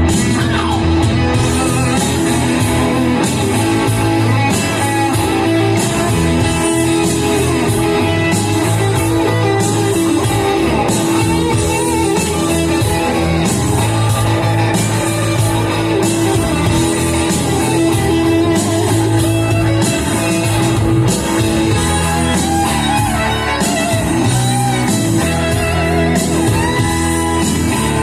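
Rock music: a loud, steady instrumental passage led by electric guitar, with bent notes over bass and drums and little or no singing.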